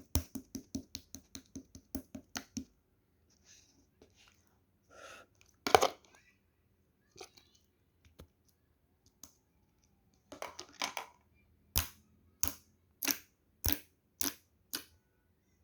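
Light-green opaque slime being pressed and worked by hand, giving crisp clicking pops. There is a quick run of about four pops a second at the start, a few softer sticky sounds in the middle, and a slower series of louder pops about every half second near the end.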